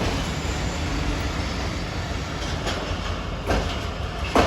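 Pakistan Railways passenger train rolling slowly along the platform as it brakes to a stop, with a steady rumble. A few sharp clacks come in the second half.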